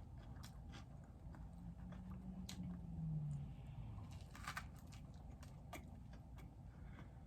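A person chewing food close to the microphone, with faint wet mouth clicks and bites, and a short low tone that falls in pitch about two to three seconds in.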